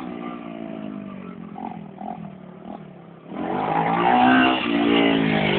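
Motocross bike engine revving. The revs fall away at first, then about three seconds in the throttle opens and the engine gets much louder, its pitch sweeping up and down.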